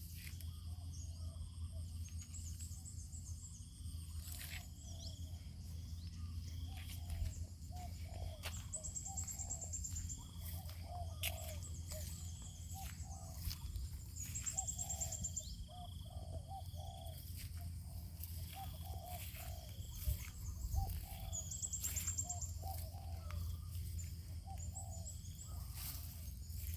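Birds calling outdoors: clusters of short low calls and, every few seconds, a brief high-pitched trill, over a steady low hum with occasional clicks.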